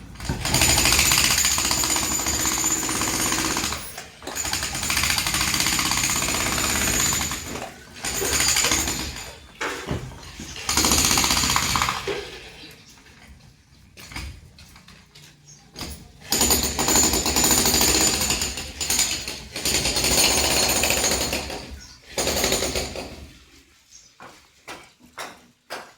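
Jackhammer breaking up an old boundary wall, hammering in runs of several seconds with short pauses. It goes quiet for a few seconds around the middle, then hammers again, and near the end there are only scattered knocks.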